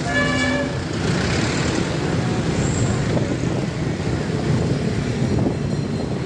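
A vehicle horn toots once, briefly, right at the start. After it comes the steady engine and tyre noise of heavy road traffic, with loaded timber trucks passing.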